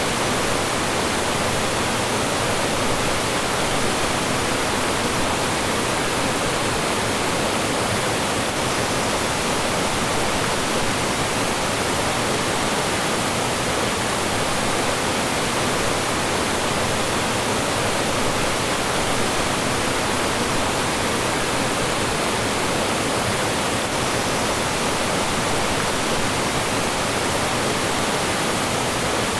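Mountain stream rushing over small falls and rocks: a steady, even rush of water.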